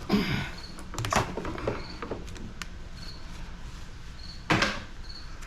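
Scattered clanks and scrapes of metal being worked while an air conditioner unit is taken apart for scrap, with the loudest knock about four and a half seconds in.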